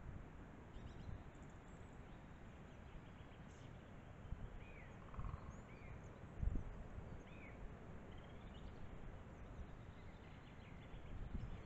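A few faint, short bird chirps over a steady hiss from a trail camera's built-in microphone, with scattered low thumps, the loudest about six and a half seconds in.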